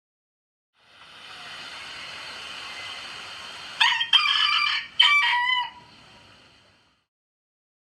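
A rooster crowing once: a cock-a-doodle-doo of several short broken notes ending in a drawn-out last note. It sits over a steady background hiss that fades in before the crow and fades out after it.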